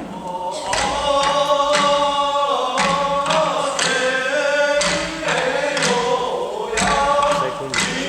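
Group of voices singing a slow shishi-odori (deer dance) song together, long notes held and drawn out, with several sharp drum strikes across it.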